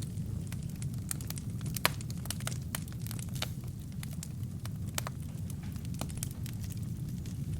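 Wood fire burning in a fireplace: a steady low roar of flames with irregular sharp crackles and pops from the burning logs, one louder pop a little under two seconds in.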